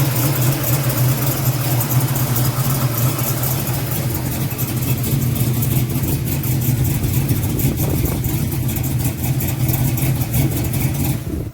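Big-block V8 car engine idling steadily through its 2.5-inch exhaust.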